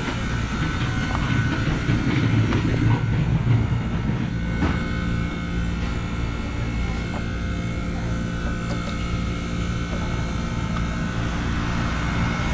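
Condenser fan motor of an R290 refrigeration unit running steadily with a constant hum, the compressor not yet started. A couple of light clicks sound over it.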